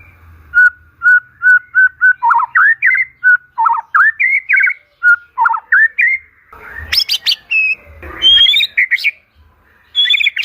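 White-rumped shama (murai batu) singing. It starts with a run of short, clear whistles on one pitch, moves into rising and falling whistled notes, and from about seven seconds in adds louder, harsh, scratchy phrases.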